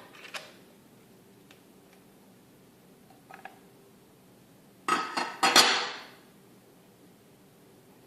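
Plastic parts of a ResMed H4i humidifier water chamber being handled and taken apart: a sharp click just after the start, a few small clicks a little past three seconds, then a louder clatter of plastic knocking and clicking about five to six seconds in.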